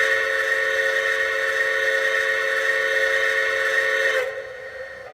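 A train whistle sounding one long chord of several notes at once, held steady for about four seconds, then fading quickly and cutting off.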